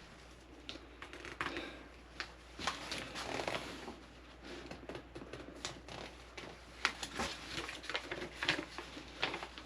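Unpacking and handling a door screen kit: packaging rustling, with scattered light clicks and taps.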